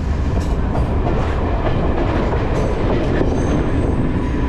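Passenger train running along the track, a steady loud rumble with clattering of wheels over the rails.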